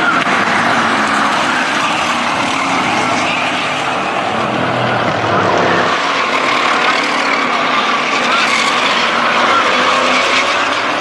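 Several oval-track race trucks running at speed, their engines overlapping in a steady loud din. The engine notes rise and fall as the trucks go around.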